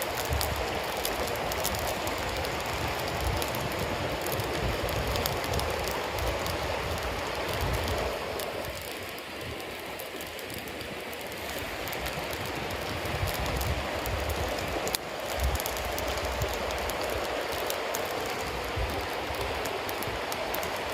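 Bonfire of wet cedar leaves and damp firewood burning, with steady hissing and many small crackles and pops over a gusty low rumble. It dips softer for a couple of seconds about halfway through, and one sharper pop comes about three quarters of the way in.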